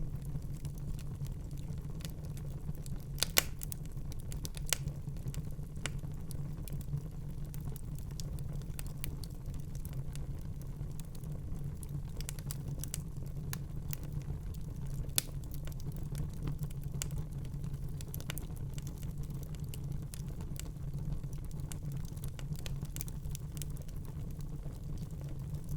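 Fire crackling in a fireplace: a steady low rumble with scattered snaps and pops, the loudest pops about three, five and fifteen seconds in.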